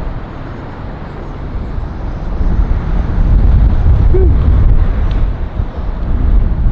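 Strong wind buffeting a handheld camera's microphone, a heavy low rumble that grows louder about two and a half seconds in.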